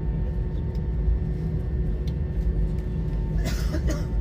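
Airbus A320 cabin noise: a steady low rumble with a few steady whining tones over it. About three and a half seconds in comes a brief rustle or clatter.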